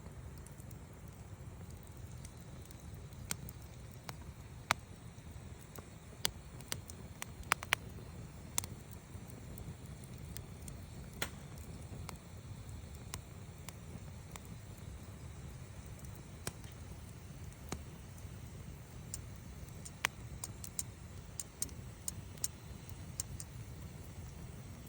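Wood fire burning, with scattered sharp crackles and pops from the burning wood over a steady low rumble. The pops come in small clusters about a quarter of the way in and again later.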